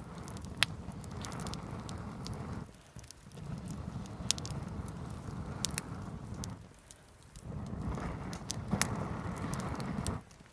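Wood fire crackling with sharp pops, under three long whooshing blasts of about three seconds each, separated by short pauses.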